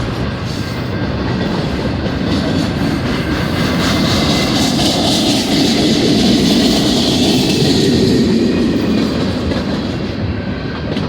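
CN freight train cars rolling past: a steady rumble and rattle of steel wheels on the rails, swelling louder through the middle.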